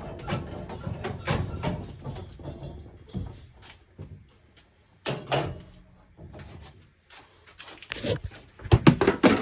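Scattered knocks, clicks and scraping from hands working on threaded pipe fittings and tools, with a cluster of louder sharp knocks near the end.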